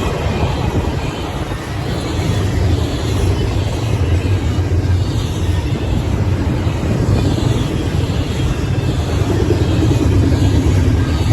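Union Pacific train rolling past at speed: a steady, loud rumble and rattle of wheels on rail, growing a little louder near the end.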